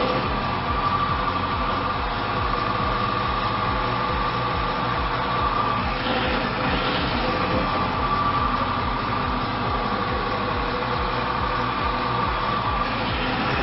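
Friction test machine running with its rotating metal wheel pressed against a metal block in oil treated with an anti-friction additive. It makes a steady mechanical whir with a high whine and an even low pulse, and the whine drops out briefly about six seconds in. It runs smoothly because the additive cuts metal-to-metal friction.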